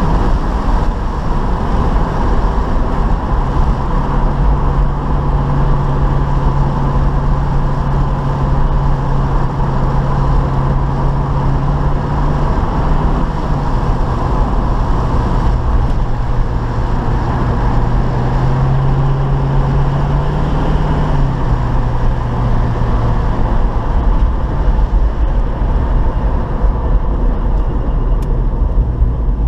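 1972 Chevy Nova's 350 V8 running as the car is driven, a steady low engine drone with road noise, its pitch stepping up and down several times.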